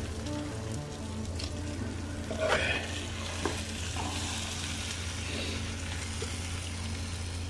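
Maggi noodles with vegetables and egg sizzling in a frying pan while a metal spoon lifts and stirs them. A few scrapes and clinks of the spoon against the pan are heard, the loudest about two and a half seconds in, over a steady low hum.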